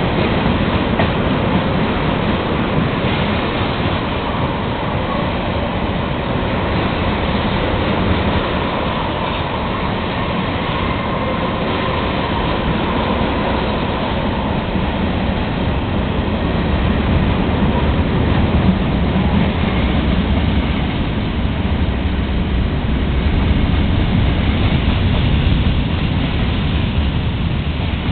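Long Providence and Worcester freight train rolling past, mostly autoracks: a steady, loud noise of steel wheels on rail.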